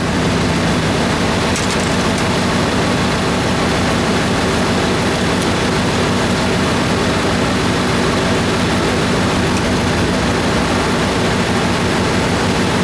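Dodge Ram 2500 pickup's Hemi V8 engine running steadily after being started, held at a constant speed with no revving.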